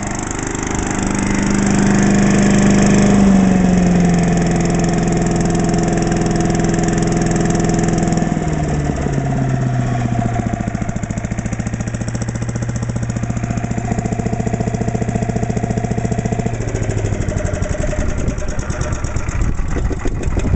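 Small single engine of an Agri-Fab leaf vacuum and wood chipper running steadily. Its speed drops in steps: a little a few seconds in, further with a downward glide about halfway, and again near the end.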